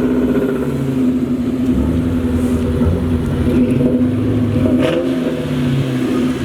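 A car engine running steadily, its pitch holding about level.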